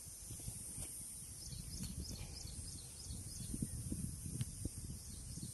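Rural outdoor ambience: a small bird gives a run of short high chirps, about four a second, through the middle, over a steady high hiss and low rumbling noise.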